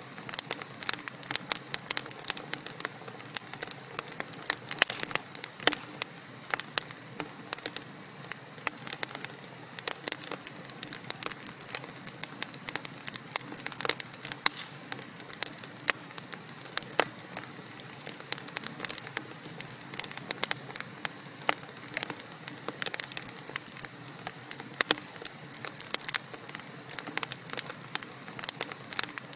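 Wood fire in a fireplace crackling, with dense, irregular pops and snaps from the burning logs over a steady soft hiss.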